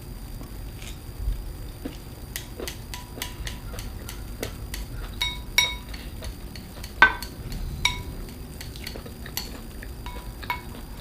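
Utensils clinking and tapping against dishes, a run of short irregular clicks, some with a brief ring, the loudest a sharp clink about seven seconds in.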